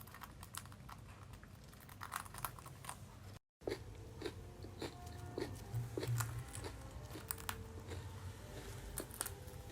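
A pet green parrot eating, its beak crunching and nibbling food in faint, irregular clicks. The sound drops out completely for a moment about three and a half seconds in, then the crunching goes on.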